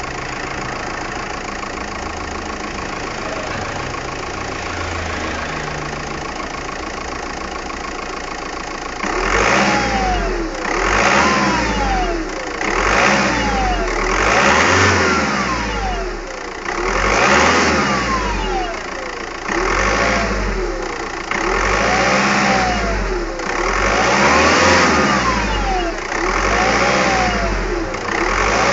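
Seat Leon engine idling steadily, then from about nine seconds in revved up and let fall back again and again, roughly once every two seconds.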